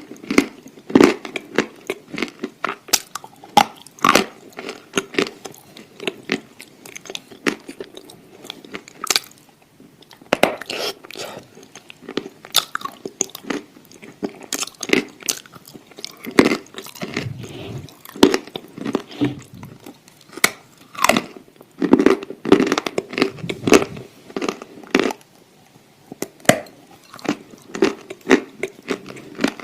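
A person biting and chewing something crunchy close to the microphone, with many sharp, irregular crunches coming several a second in clusters and short pauses between mouthfuls.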